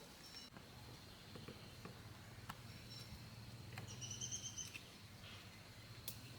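Faint outdoor ambience: a steady high whine, a short wavering bird-like call about four seconds in, and a few faint clicks over a low rumble.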